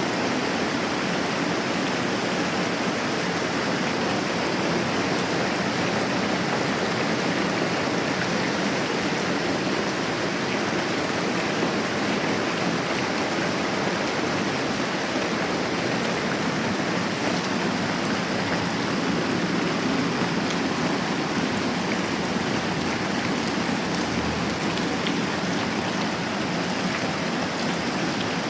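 Steady moderate rain, a dense even hiss of falling drops that doesn't let up.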